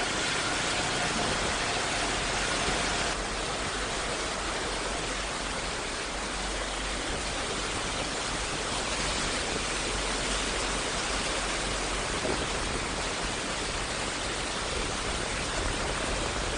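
Steady hiss of water. A faint engine hum fades out in the first second, and the hiss drops a little about three seconds in.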